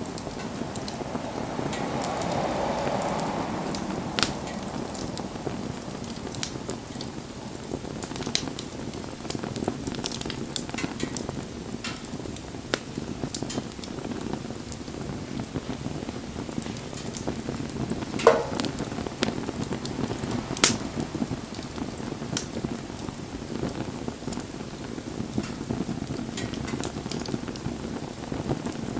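Wood campfire burning: a steady crackling hiss with scattered sharp pops, two of them louder about two-thirds of the way through.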